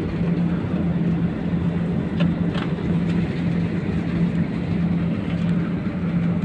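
Airliner cabin noise on the ground after landing: a steady rushing noise from the engines and air system, with a low hum that wavers in strength.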